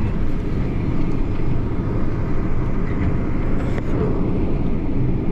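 Combine harvester running with a steady drone while unloading grain through its auger into a semi-trailer hopper.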